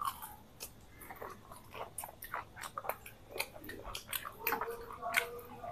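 People biting into and chewing crisp deep-fried egg chops, an irregular run of small crunches and crackles.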